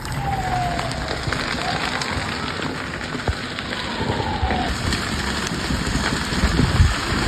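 A large fire burning, a dense, steady crackling and hissing, with two falling whistles in it, the first just at the start and the second for about three seconds from near two seconds in.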